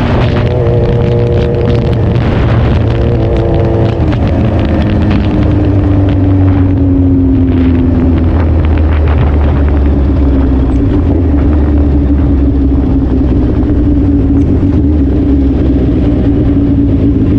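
Suzuki Hayabusa's inline-four engine running under way. Its pitch steps down and slides lower over the first several seconds as it slows, then holds steady.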